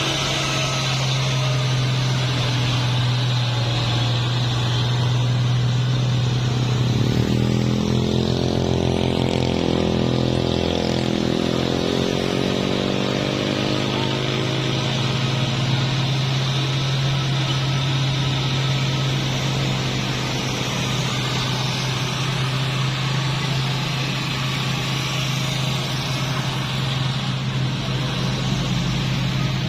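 Heavy diesel truck engines on a steep road: a steady low engine drone throughout, joined about a quarter of the way in by another engine whose pitch rises and then falls as it passes.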